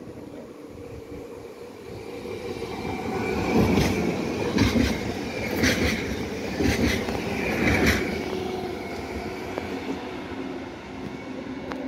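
Electric multiple-unit passenger train passing close by, its running noise swelling as it nears and fading as it draws away. While it passes, the wheels give about five regular knocks roughly a second apart.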